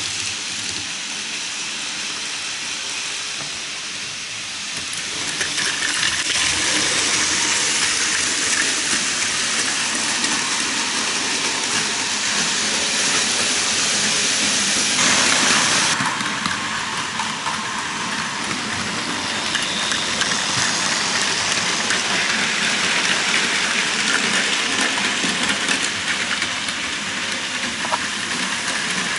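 Model trains running on a tabletop layout: a steady whirring and rattling of small motors and wheels on track, getting louder about five seconds in and changing about halfway through as trains pass close.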